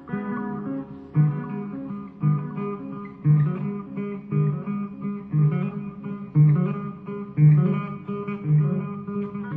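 Gretsch 6228 Players Edition electric guitar playing a riff, with a low accented note struck about once a second under higher picked notes.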